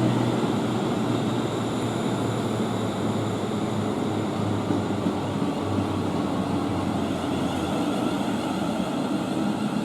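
Class 350 Siemens Desiro electric multiple unit, two units coupled, giving a steady running hum at the platform. A low drone under it drops slightly in pitch about five and a half seconds in and stops near eight seconds.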